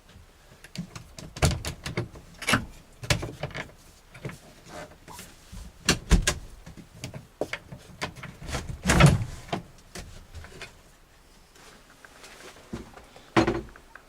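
A string of irregular knocks, clunks and clatters of things being handled and moved about, loudest about nine seconds in, with a last knock near the end.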